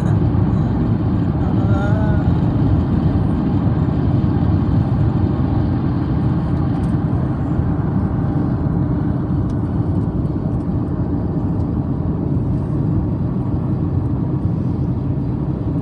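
Steady road and engine rumble of a car driving, as heard from inside the cabin. A brief high pitched sound comes about two seconds in.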